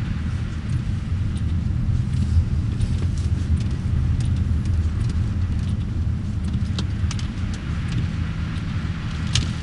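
Steady low rumble of a car's engine and tyres heard from inside the moving car's cabin, with a couple of faint clicks near the end.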